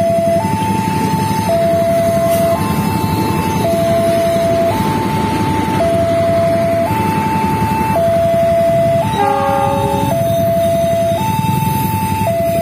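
Railway level-crossing warning alarm sounding a steady two-tone alternation, each tone held about a second, over continuous low noise. A short chord-like horn blast cuts in about nine seconds in.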